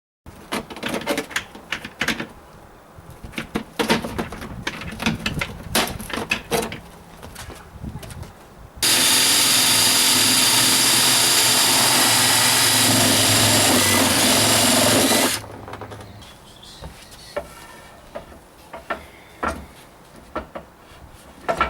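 Several seconds of clicks and knocks as the work is handled. Then a power tool runs steadily for about six and a half seconds, cutting through a plastic container's top where scoring had not gone all the way through. It stops abruptly, followed by more scattered clicks.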